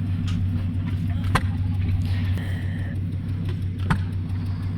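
A steady low engine drone, as of an engine idling nearby, with two sharp clicks over it.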